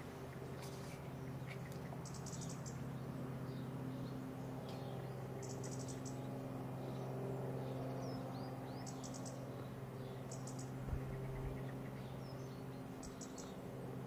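Small birds calling outdoors: short, high bursts of rapid ticking every few seconds and a few faint chirps, over a steady low hum. A soft low bump comes about eleven seconds in.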